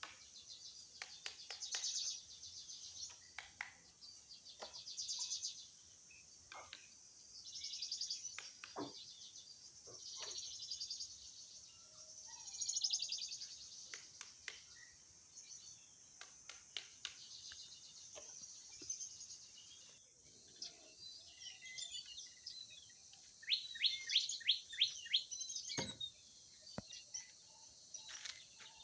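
Forest birds calling: high buzzy trills repeat every couple of seconds, and a quick run of sharp chirps comes near the end. Scattered light clicks and snaps sound throughout.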